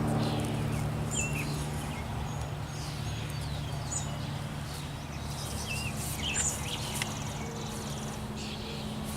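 Honeybees at an open hive buzzing as a steady low hum, with birds chirping short calls every couple of seconds over it.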